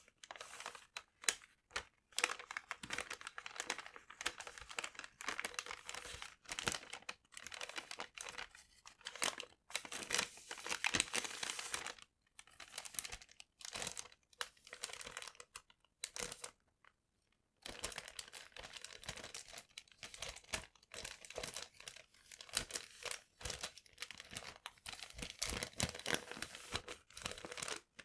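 Paper being crumpled and crinkled close to the microphone: dense, rapid crackling with a couple of short pauses about halfway through.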